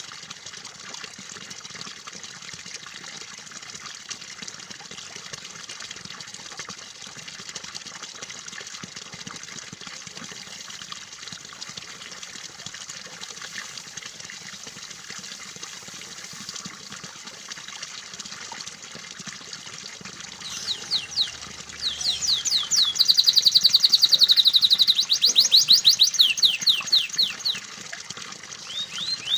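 Water trickling steadily, and about twenty seconds in a canary starts singing over it: fast runs of rapidly repeated sweeping notes, loud and high.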